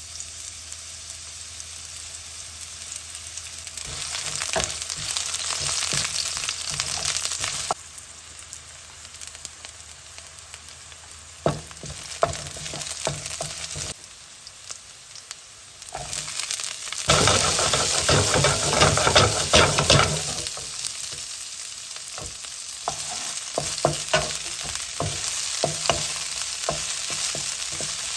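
Sliced onions, and later strips of bell pepper, frying in hot oil in a nonstick pan: a steady sizzle with short clicks and scrapes from a wooden spatula stirring them. The sizzle swells for about three seconds a little past the middle.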